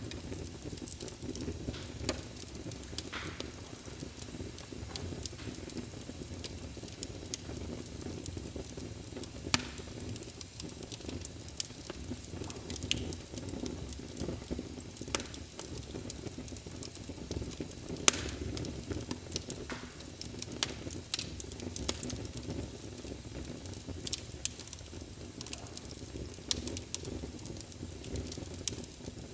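Wood fire burning in a fireplace: a steady low rush of flames with frequent sharp crackles and pops, a few of them louder than the rest.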